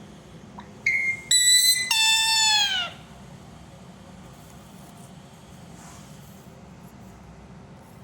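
Pet parrot calling: three loud pitched calls in quick succession about a second in, the last one longer and dropping in pitch at its end.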